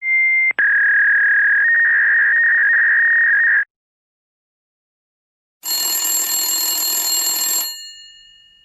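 Telephone ringing sound effects: first a steady electronic telephone tone with a short break just after it starts, lasting about three and a half seconds. Then, after a pause, a brighter bell-like telephone ring for about two seconds that rings out and fades.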